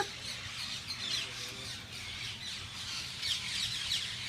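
A flock of green parrots squawking and chattering together as they settle in to roost at dusk, many short harsh calls overlapping without a break.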